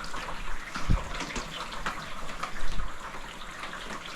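Rain water dripping and splattering off corrugated plastic roof panels into the rain gutters: a steady patter of drops over the hiss of rain. Two low thumps stand out, about a second in and near three seconds in.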